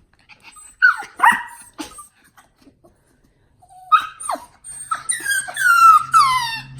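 A dog whining and yelping in high, falling cries: a couple of them about a second in, then a quick run of them from about four seconds on. A faint steady low hum runs under the last couple of seconds.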